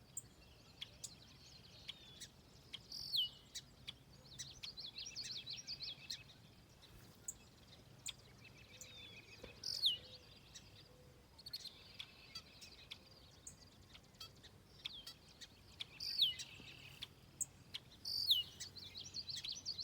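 Wild birds calling and singing: a loud, sharp whistle sliding steeply down in pitch comes back four times, a few seconds apart, among rapid high chattering trills.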